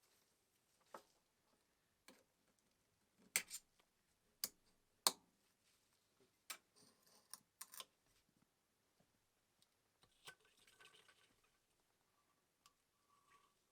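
A string of separate sharp clicks and light knocks at uneven intervals, loudest about a third of the way in, against near silence.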